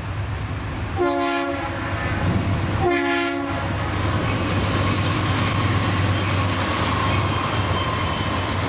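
Diesel locomotive air horn sounding two short chord blasts about two seconds apart, over the steady low rumble of a passing train.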